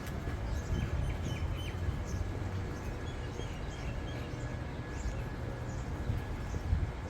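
Wind buffeting a phone's microphone: a steady, unsettled low rumble, with short high chirps scattered throughout.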